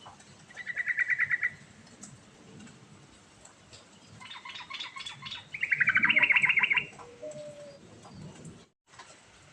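Yellow-vented bulbul (trucukan) singing: a rapid trill of fast repeated notes about a second in, then a busier run of quick notes leading into a loud, fast trill around six seconds in.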